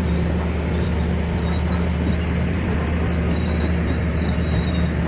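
Heavy diesel engine running steadily at a constant speed, a low, even drone.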